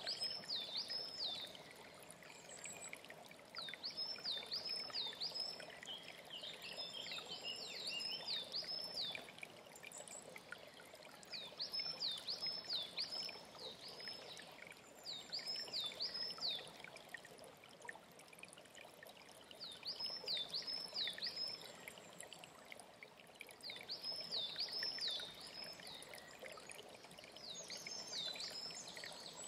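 A small songbird repeating a short phrase of three or four quick whistled notes about every four seconds, over the steady rush of a mountain stream.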